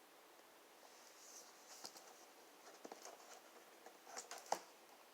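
Near silence with a few faint clicks and soft paper rustles: the pages of a picture book being handled and turned.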